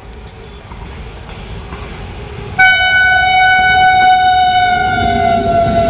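Indian Railways WAP7 electric locomotive approaching on a through train. A rumble grows steadily louder, then about two and a half seconds in a loud, sudden air-horn blast of one steady note that sags slightly in pitch and is held for over three seconds.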